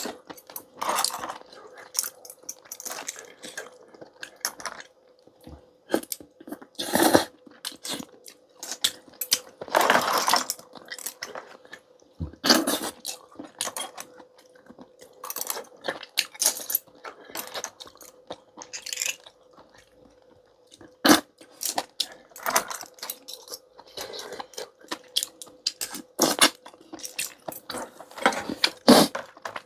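Close-miked eating sounds of a person working through a bowl of clam and maesaengi knife-cut noodles: irregular chewing and biting, with many sharp clicks and clinks and several longer noisy stretches, against a faint steady hum.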